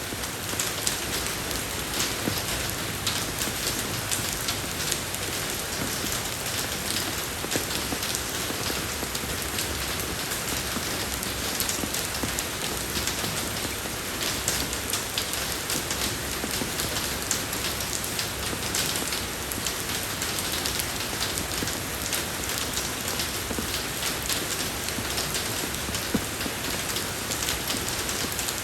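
Steady rain falling on a road surface, a dense even hiss dotted with many individual drop taps.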